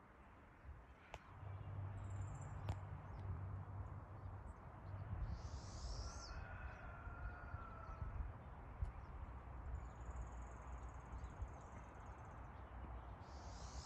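Quiet outdoor ambience with a steady low rumble. A bird chirps briefly about five and a half seconds in and again near the end, with fainter bird calls in between.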